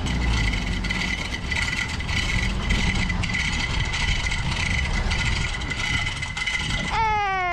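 VW Kombi van engine running steadily at low speed as the van is manoeuvred. Near the end a falling whistle-like tone starts.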